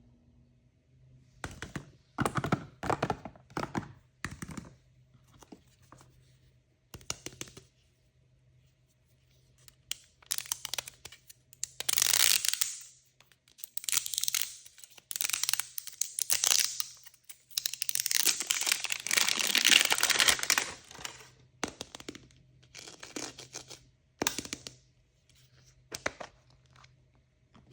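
Surprise-toy packaging being torn open by hand, with crinkling. There are a few short rips, then longer tears, and the longest and loudest lasts about three seconds, some two-thirds of the way through.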